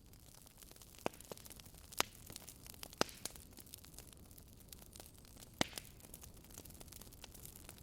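Wood fire crackling in a fireplace: a handful of sharp pops, a second or more apart, over a low steady hiss of the burning logs.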